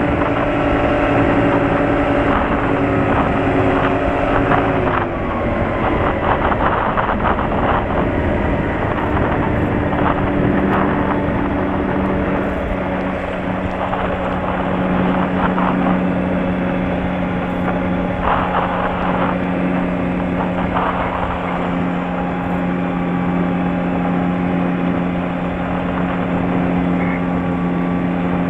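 Light airplane's piston engine running on the ground after landing, its pitch dropping about five seconds in as power comes back, then running steadily at a low setting, with some wind noise.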